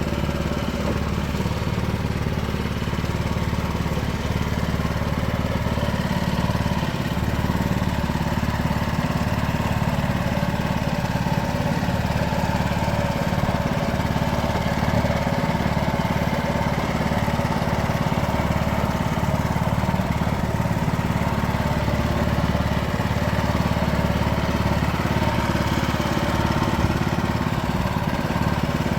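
Small engine of a self-propelled boat trailer running steadily at an even speed.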